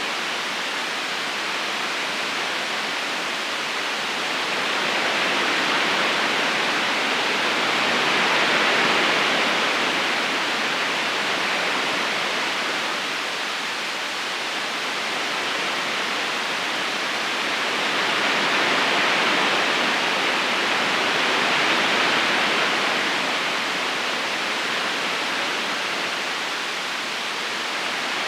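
River current rushing steadily as an even, hissing wash of water, swelling a little louder twice, around eight seconds in and again around twenty seconds in.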